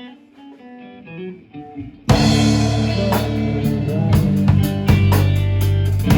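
A band playing: soft plucked guitar notes, then about two seconds in the full band comes in loud, with drum kit, bass and guitar in a steady beat.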